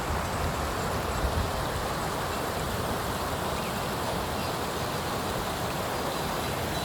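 Mountain stream rushing steadily, with wind buffeting the microphone.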